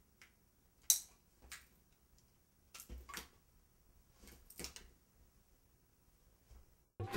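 A few scattered clicks and soft knocks in a quiet room, the sharpest about a second in. Music starts just at the end.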